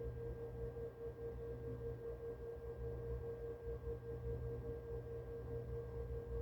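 Presto 6N record lathe running with its turntable spinning: a steady motor hum carrying one clear, unchanging mid-pitched tone.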